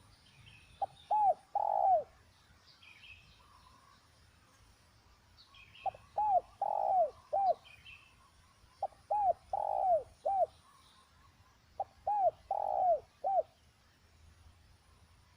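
Spotted dove cooing: four phrases of three or four short, falling coos with a longer note in the middle, repeated every few seconds. Faint higher chirps of small birds sound in between.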